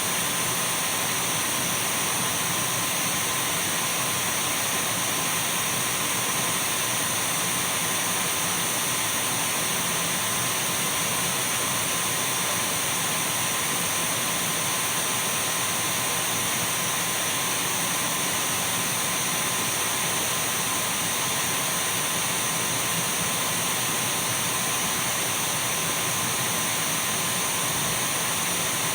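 Dyson V12 cordless stick vacuum running steadily: an even rush of air with a high, unchanging whine from its motor.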